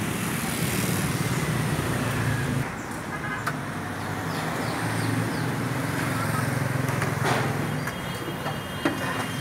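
Toyota Sienta 1.5-litre four-cylinder engine idling steadily under the raised hood. Two sharp clicks near the end as the hood prop rod is set.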